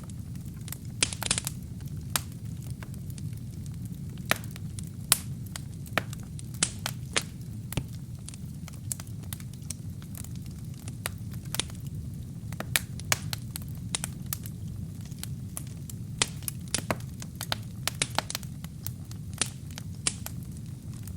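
Wood fire burning in a fireplace: a steady low rumble of the flames with irregular sharp crackles and pops from the burning wood and kindling, a few of them louder, such as a quick cluster about a second in.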